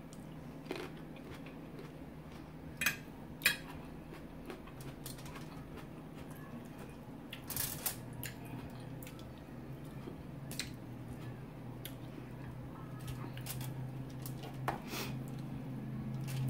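Close-up eating sounds: a cherry tomato bitten and chewed, then a chicken wing pulled apart by hand, with scattered sharp clicks and crunches, the two loudest close together about three seconds in. A low steady hum grows stronger through the second half.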